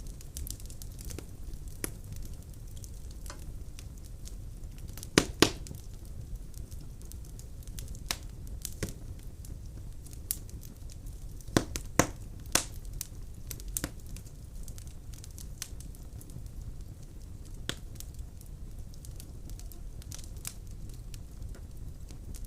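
Firewood burning in a fireplace, crackling with scattered small pops over a low steady rumble of the flames, and a few loud snaps about five seconds in and again around twelve seconds in.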